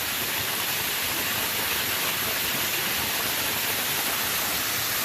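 Steady rush of a nearby waterfall, running strongly after several days of rain.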